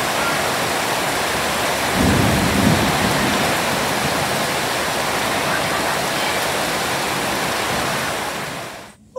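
Heavy rain pouring steadily, a dense hiss, with a low rumble swelling about two seconds in. The rain cuts off abruptly near the end.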